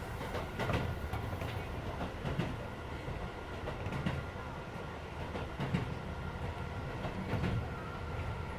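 Keisei 3400 series electric train heard from inside a car while running between stations: a steady rumble of wheels on rail with irregular clacks over rail joints, and the car's air conditioning running underneath.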